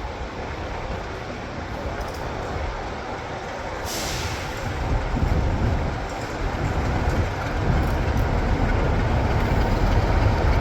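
Train rumbling past, with a short hiss about four seconds in and the low rumble growing louder after it.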